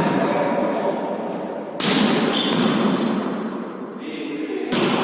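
A ball being struck and bouncing during a volley tennis rally: a sharp thud about two seconds in and another near the end, each ringing out in a reverberant hall.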